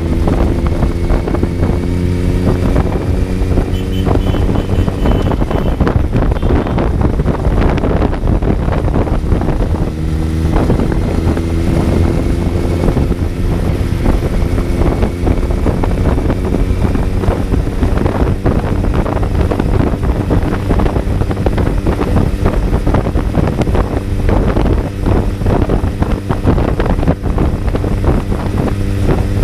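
Kawasaki Z900's inline-four engine pulling hard under acceleration, its pitch climbing and dropping at gear changes a few seconds in and about ten seconds in, then running steadier. Wind buffets the microphone throughout.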